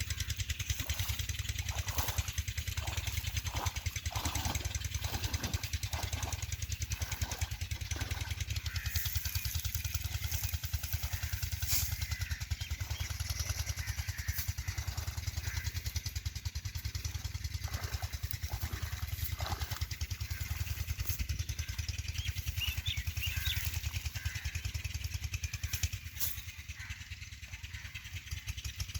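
Single-cylinder Petter stationary diesel engine running steadily, a rapid even chugging.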